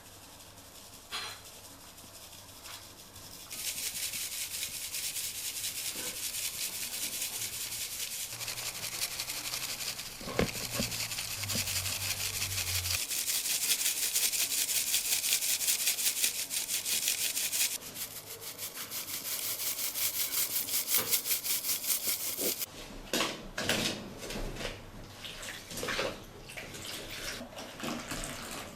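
Fast, steady rhythmic scraping or rubbing hiss, starting a few seconds in and stopping about three-quarters of the way through, followed by a few scattered short knocks.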